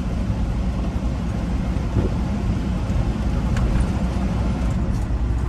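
Freightliner Classic XL semi truck's diesel engine and road noise heard from inside the cab: a steady low drone while driving, with a few faint ticks.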